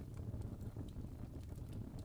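Fire burning in a fireplace: a steady low rumble of flame with a few small, scattered crackles.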